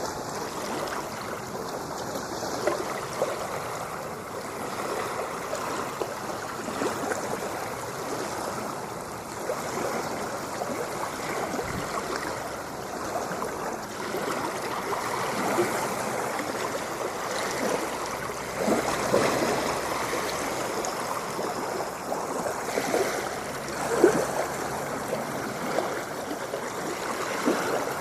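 Ocean water lapping and splashing: a continuous rush of water with many small splashes, and one louder splash near the end.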